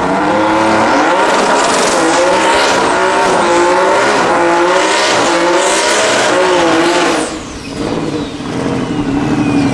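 Turbocharged 3.1-litre BMW M50 straight-six in a drag-race Audi S2 running at full throttle on a pass down the strip, its note wavering up and down. About seven seconds in the engine sound drops away suddenly, and a high whistle falls in pitch over the last couple of seconds.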